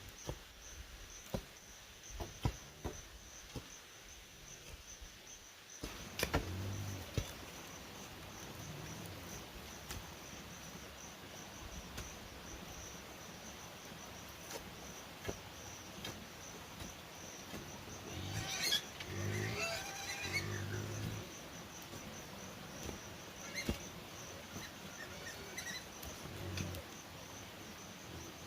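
Steady high-pitched insect buzz, with scattered knocks and clicks over it and a short louder stretch of mixed sound about two-thirds of the way through.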